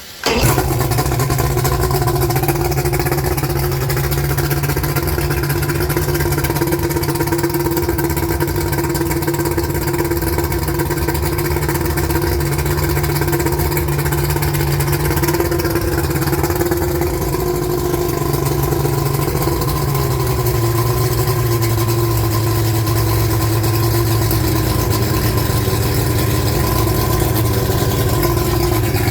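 1992 Mercury 200 hp XRi 2.5-litre V6 two-stroke outboard running steadily at idle on a flushing hose. The idle is super high, and the pitch drops slightly about twenty seconds in.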